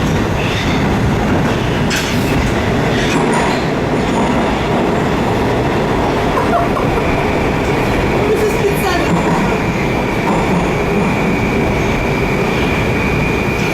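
Metro train running at speed, heard from inside the carriage: a loud, steady rumble of wheels and running gear, with a high steady whine coming in about halfway through.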